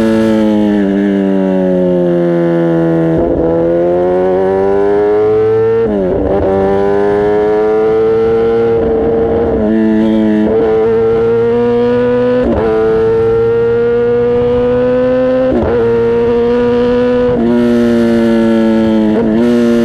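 Kawasaki ZX-10R inline-four engine and exhaust under way, revs falling over the first few seconds and then climbing, with a string of gear changes where the pitch jumps abruptly.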